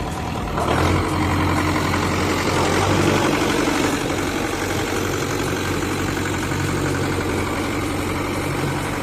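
Lovol 404-A tractor's diesel engine running: it speeds up a little under a second in, holds a higher note for about three seconds, then settles back to a steady idle.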